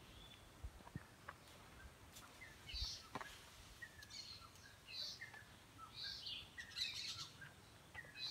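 Birds calling in the trees: short high chirps, each followed by a few lower whistled notes, repeating about once a second through the second half.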